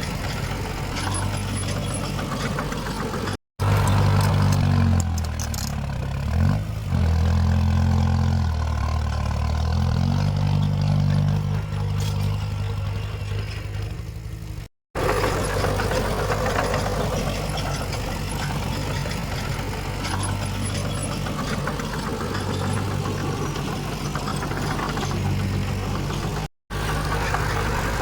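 Diesel engines of heavy earthmoving machinery running, broken by three brief dropouts. In the stretch from about 4 to 15 seconds a louder, deeper engine note steps up and down in pitch as it works under load.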